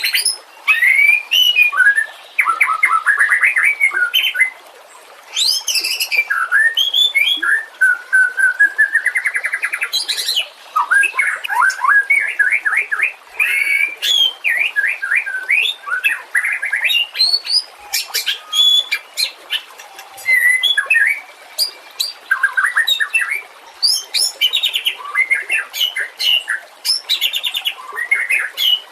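White-rumped shama (murai batu) singing a loud, varied song: slurred whistles, rapid trills and sharp high clicks, phrase after phrase with short pauses between.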